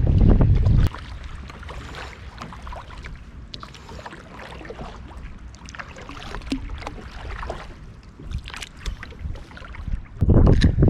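Wind buffeting the microphone for about the first second and again near the end. In between, a quieter stretch of small splashes and light knocks of water around a kayak.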